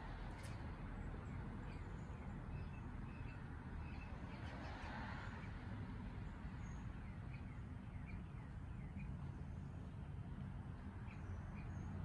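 Small birds giving scattered short, high chirps over a steady low background rumble.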